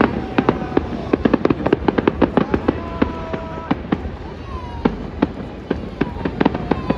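Fireworks display: a dense run of rapid crackling bangs and pops, with thin whistling tones rising and falling among them.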